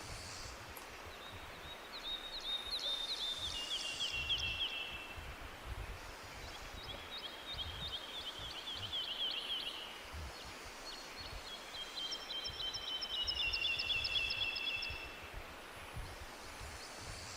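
A songbird singing three trilled phrases, each a few seconds long. Every phrase is a fast run of repeated high notes that steps down in pitch, over a steady low background rumble.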